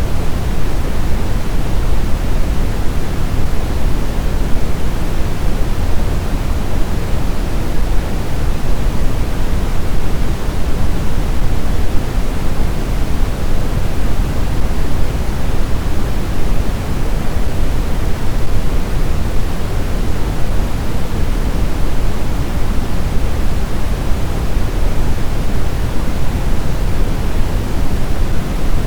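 Blizzard wind ambience: a steady, even rush of wind noise, heaviest in the low end, with no distinct gusts.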